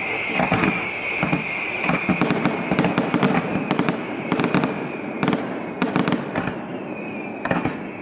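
Fireworks display: a rapid, irregular series of sharp bangs and crackles from bursting shells, over a steady high hiss.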